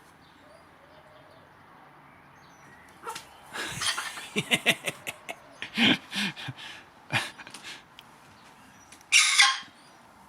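Pet parrot calling: a run of short chattering squawks and clicks from about three seconds in, then one loud harsh screech near the end.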